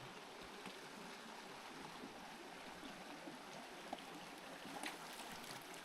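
Shallow creek running over rocks, a faint, steady rush of water, with a few faint clicks in the second half.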